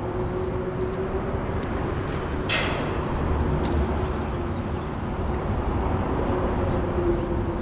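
Steady rumble of road traffic with a constant low hum under it. A short sharp swish comes about two and a half seconds in, and a faint click about a second later.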